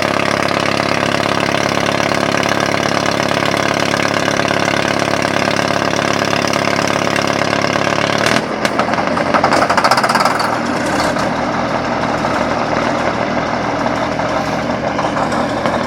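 1957 Caterpillar D8 crawler's engine running steadily. About halfway through, the sound changes abruptly to a rougher, uneven running that is briefly louder.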